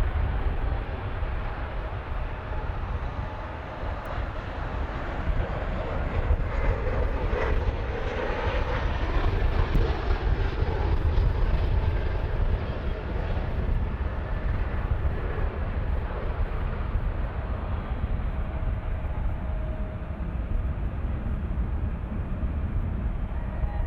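Engine noise of a passing airplane over a steady low rumble. It builds to its loudest about ten to twelve seconds in, then slowly fades.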